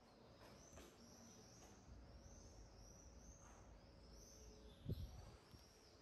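Near silence in a stone stairwell, with faint, high bird chirps repeating throughout and one soft thump about five seconds in.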